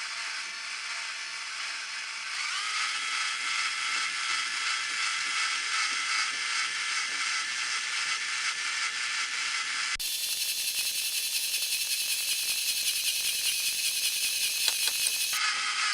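A small electric motor running steadily with a whine, rising slightly in pitch a couple of seconds in. The sound changes abruptly about ten seconds in and again near the end.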